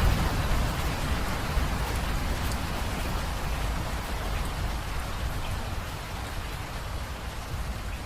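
Steady rain falling, with scattered individual drops ticking, gradually getting quieter as the shower eases. A low rumble fades away in the first second or so.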